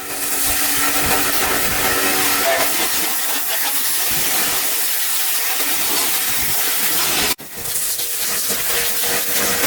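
A high-pressure jet hissing steadily, as from detailing equipment spraying water or blowing air. It breaks off for an instant about two-thirds of the way through, then carries on.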